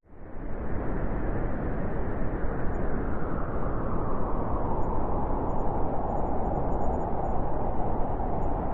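Blizzard wind blowing steadily, fading in quickly at the start and growing a little stronger and brighter toward the end.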